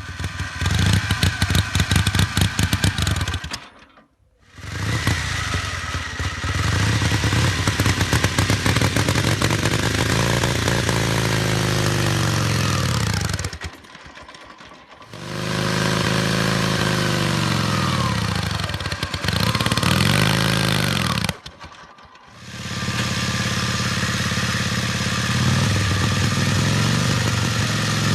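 Indian Scout motorcycle's V-twin engine running and revving, its pitch rising and falling again and again, in several stretches separated by brief drops at about 4, 14 and 22 seconds.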